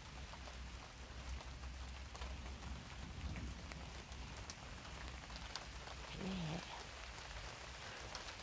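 Rain falling in a thunderstorm, steady hiss with scattered individual drop clicks. A brief low pitched sound about six seconds in.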